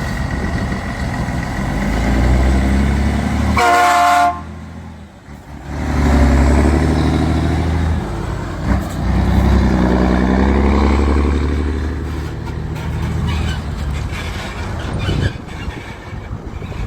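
Scania 113 truck's diesel engine running, with a short horn blast about four seconds in.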